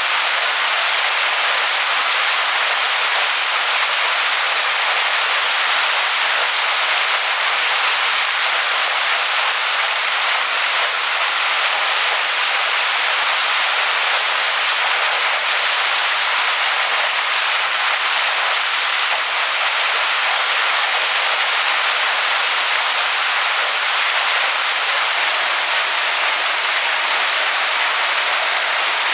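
Waterfall pouring onto rocks: a loud, steady rushing hiss, mostly high with little low rumble.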